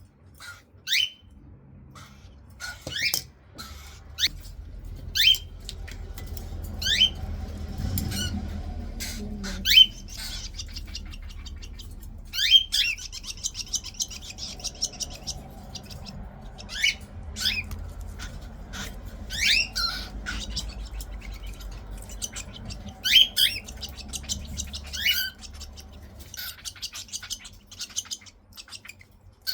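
Baby cockatiel chicks making food-begging calls while being spoon-fed formula: short sharp squawks every second or two, with a longer buzzy chatter about twelve seconds in.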